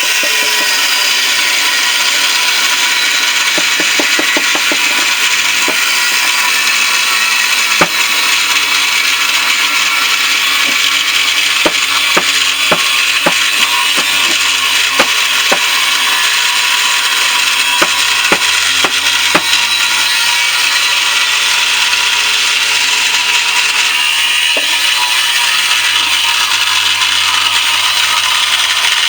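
A power tool running steadily as it cuts open the steel shell of a central air conditioner compressor, with scattered sharp clicks and knocks.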